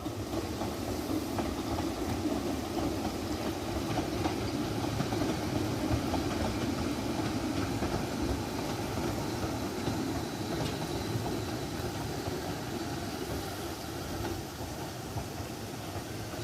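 Talyllyn Railway narrow-gauge train running: a steady rumble of wheels and carriage without distinct beats.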